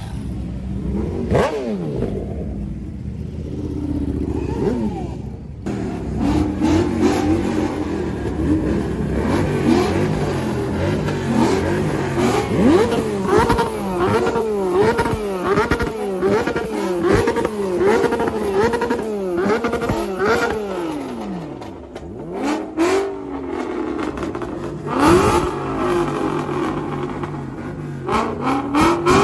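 Vehicle engines revving hard, their pitch rising and falling again and again. For several seconds in the middle, one engine is blipped up and down in a fast, regular rhythm.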